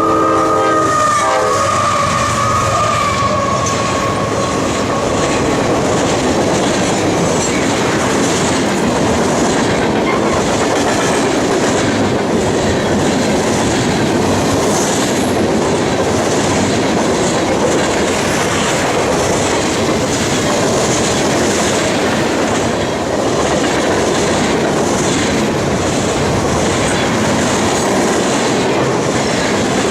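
A train passing close by: its horn chord cuts off about a second in, then the steady loud run of wheels on rail with a clickety-clack of the cars going by.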